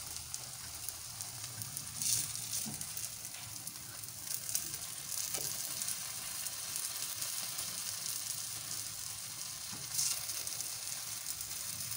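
Egg omelette sizzling steadily in hot oil in a nonstick wok, the sizzle swelling a few times as a silicone spatula pushes and folds the egg over into a roll.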